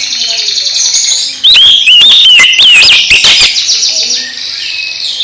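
Oriental magpie-robin (kacer) singing: a fast, high chattering trill, broken about a second and a half in by a run of loud, sweeping whistled notes, then the trill again.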